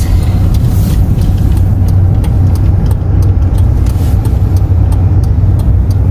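Steady low drone of a car's engine and tyres, heard from inside the cabin while driving, with faint quick ticks over it.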